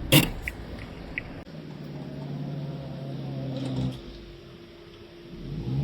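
Car reversing into a parking spot: short high beeps at even spacing stop about a second in, with a sharp click near the start. A steady engine hum cuts off about four seconds in.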